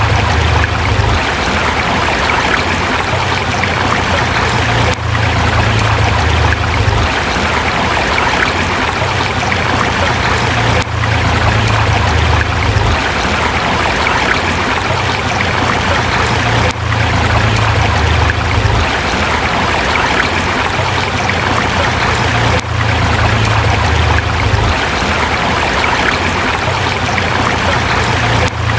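Forest river flowing over rocks: a steady, dense rush of running water, with a brief dip in loudness about every six seconds.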